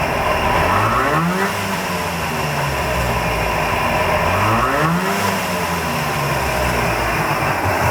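Daihatsu Hijet S38 engine running just after a head gasket replacement and carbon removal from the pistons. It is revved up and eased back down twice, about a second in and again near the middle.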